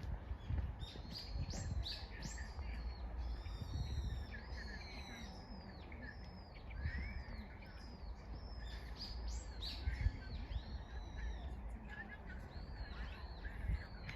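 Many short, high chirping calls, repeated a few times a second and overlapping at different pitches, over a low rumble of wind or handling on the microphone.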